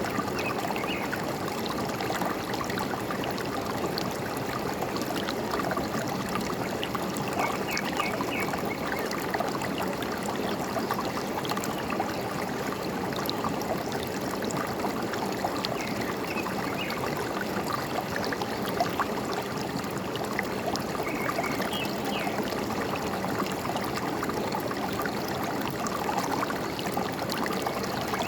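Forest stream flowing and trickling steadily, with a few short bird chirps now and then.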